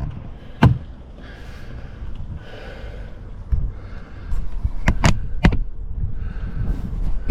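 Handling noise in a car interior: one sharp click under a second in, then three quick clicks about five seconds in, between soft rustling.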